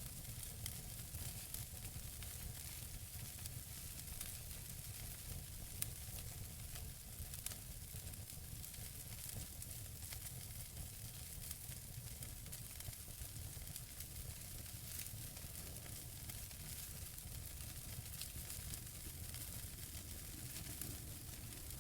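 Wood fire burning in a fireplace: burning logs crackle and hiss steadily over a low rumble, with a few sharper pops, the loudest about six seconds in.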